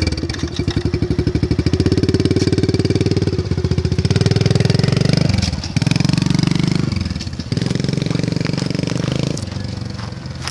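Small semi-automatic dirt bike engine running steadily, with two brief dips in the engine note about five and a half and seven and a half seconds in, then getting quieter as it moves away near the end.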